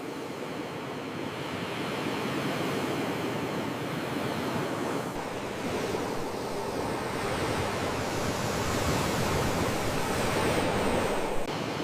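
Sea waves washing in steadily, swelling slowly louder, with a sharp break in the sound shortly before the end.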